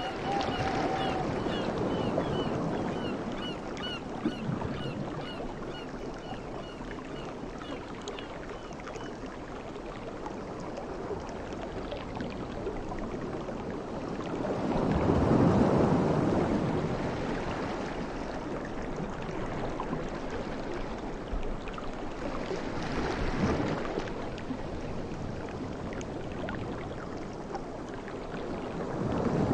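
Sea waves washing in and breaking, with a loud surge about halfway through, a smaller one later and another building at the end. A faint run of short, regularly repeated high chirps sounds over the surf during the first several seconds.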